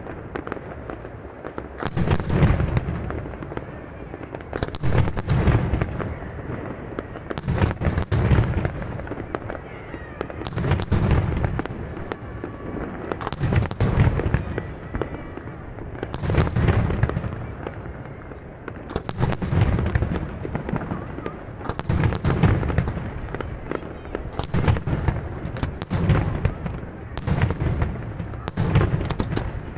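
Fireworks display: aerial shells bursting with deep booms about every two to three seconds, with a steady crackle of smaller reports between them.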